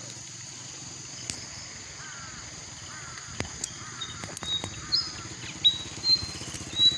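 Birds chirping in short whistled notes and a few gliding calls over a steady high drone, with a few sharp clicks. A low pulsing rumble grows louder near the end.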